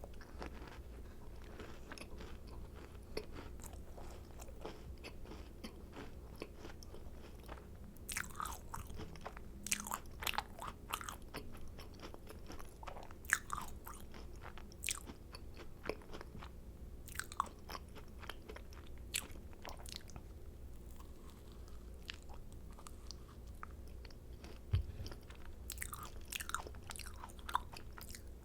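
Close-up eating sounds of macarons: the crisp shells crackling as they are bitten and chewed, in several short spells of crunching with quieter chewing between.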